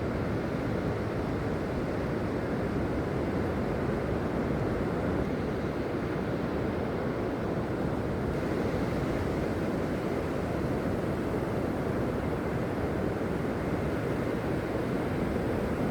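Steady rushing noise of sea surf and wind on the shore, unbroken and even in level.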